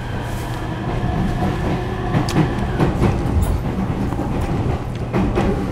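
JR E231 series suburban electric train running, heard from inside the passenger car: the steady hum of its Hitachi IGBT VVVF inverter and traction motors over wheel-and-rail rumble, with scattered clicks from the track.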